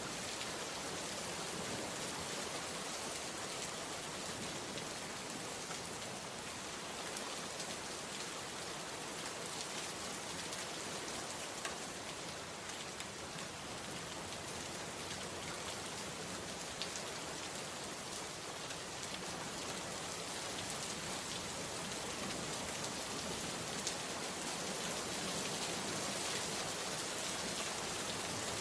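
Steady rain falling, an even hiss of drops with scattered individual drop ticks, getting slightly louder near the end.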